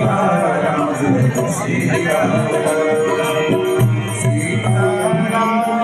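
Hindu devotional music: voices singing a chant over instruments and percussion.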